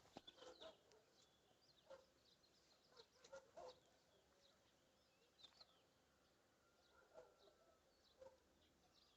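Faint scattered bird calls: short high chirps with a few lower clucks, like fowl clucking.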